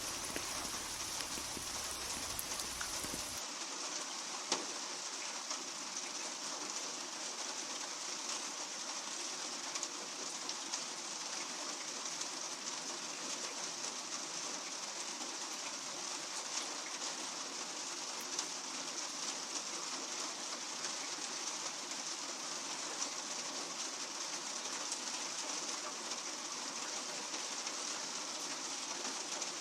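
Steady rain falling on a surface, an even hiss with a few sharper drop ticks. A faint low rumble under it cuts out about three seconds in.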